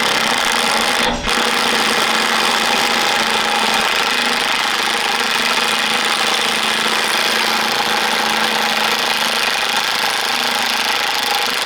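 Impact wrench hammering without a break for about eleven seconds, working on a seized bolt in a steel armour plate.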